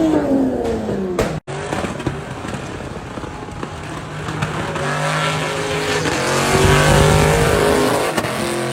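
Modified car engines revving hard. A rev falls away in the first second, then after an abrupt cut another engine runs and builds to a louder, steady high rev in the second half.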